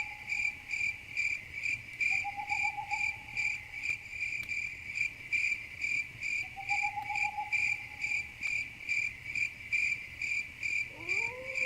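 Crickets chirping steadily at night, a regular pulsed chirp of about three pulses a second. A lower trilling call comes in every few seconds, and near the end a tone glides upward and then holds steady.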